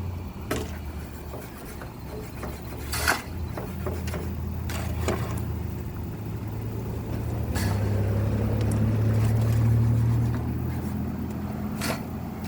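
An engine running with a steady low hum that swells louder for a few seconds about eight seconds in, with a handful of sharp knocks and clanks over it.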